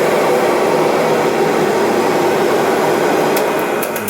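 1998 Kirby Generation 5 upright vacuum running steadily, a loud even rush of motor and fan just after start-up, with a few sharp clicks near the end. Its owner thinks it sounds about due for a new belt.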